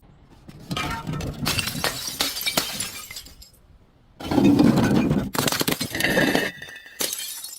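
Glass being crushed and breaking in several separate bursts of crunching and shattering, the loudest about halfway through, with sudden silent gaps between them. A short steady ringing tone sounds near the end.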